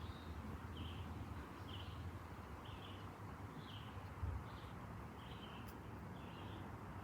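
A bird calling a short chirp over and over, about once a second, over a low steady rumble.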